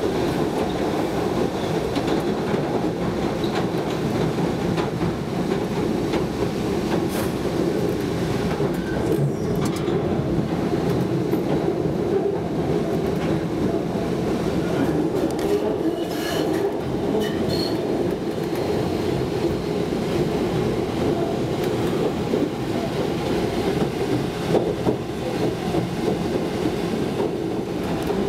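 Subway train running, heard from inside the car: a steady noise of the moving train with a few faint clicks.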